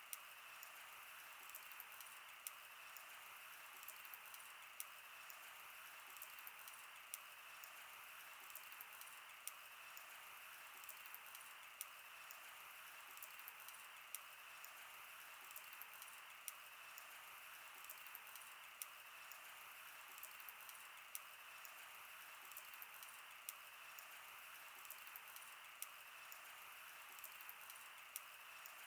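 Wood campfire crackling faintly: irregular sharp pops and snaps, about one or two a second, over a steady soft hiss of the burning fire.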